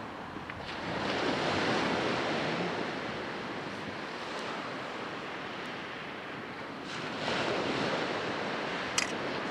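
Sea waves washing onto the shore, swelling once about a second in and again near the end, with a single sharp click shortly before the end.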